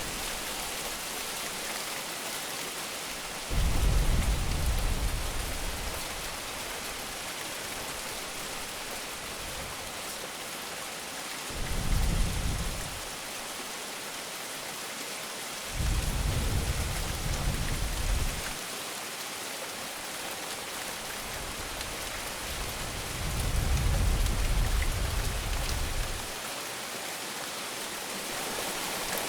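Steady heavy rain hissing, with low rumbles of thunder rolling in four times, each lasting a few seconds.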